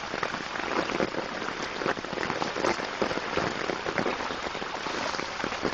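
Rain pattering on deep floodwater: a dense, steady spatter of many small drops and splashes.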